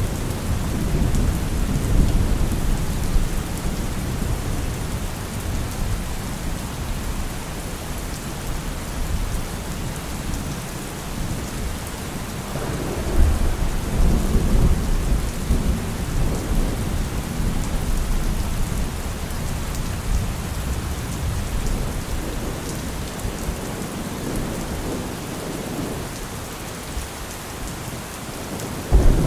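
Heavy rain falling steadily with low rolling thunder. The rumbles swell near the start and again about halfway through, and a louder thunder roll breaks in right at the end.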